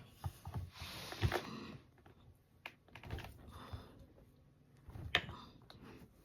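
Handling noise: scattered light clicks, taps and rustles as small metal gun parts are worked by hand, with a sharper click about a second in and another near the end.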